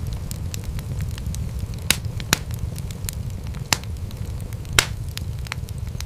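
Wood fire in a fireplace crackling over a steady low rumble of flame, with irregular sharp pops. Four of the pops are louder, about two, two and a half, four and five seconds in.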